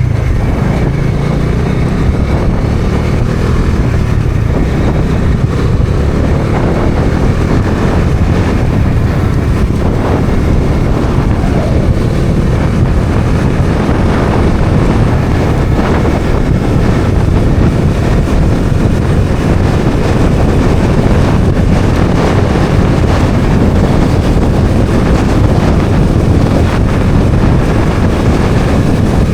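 Bajaj Dominar 400's single-cylinder engine running steadily while riding, mixed with heavy wind noise on the microphone.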